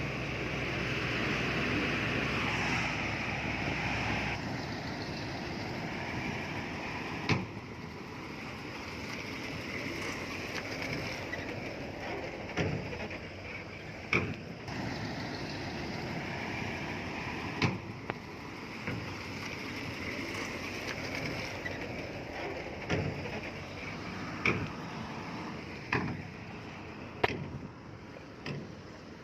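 Heavy earthmoving machinery working, with sharp knocks and clanks every one to three seconds over a steady rumble.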